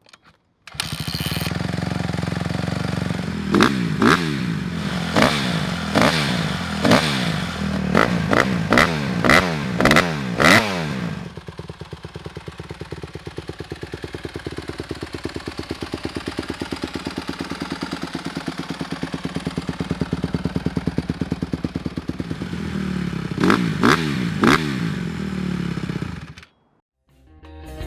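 2022 Honda CRF150R Big Wheel's 149cc four-stroke single-cylinder engine starting up, then revved in about ten quick throttle blips, idling steadily through its exhaust, blipped three more times and shut off.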